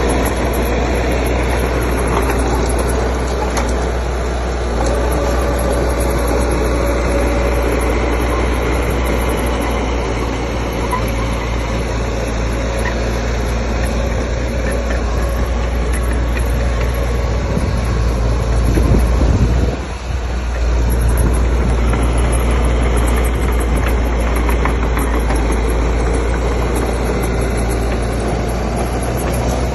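Heavy diesel earthmoving machinery running steadily with a deep engine hum. The sound swells briefly about two-thirds of the way through, then drops sharply for a moment before settling back.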